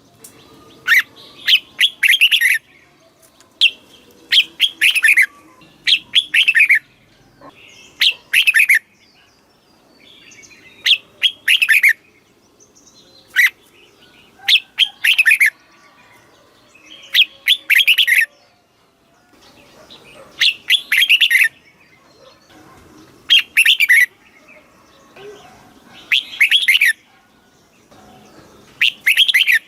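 Red-whiskered bulbul singing: a dozen or so short, bright phrases of quick notes, one every couple of seconds.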